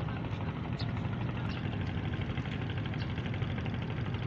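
Steady low drone of the ferry Pulo Telo's diesel engines running as it manoeuvres in to berth.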